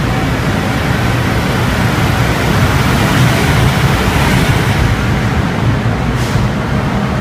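JR East EF510 electric locomotive drawing a sleeper train out of the station at low speed, with its rear end passing and the blue sleeper coaches rolling by behind it. A steady low rumble and hum, with a short high hiss about six seconds in.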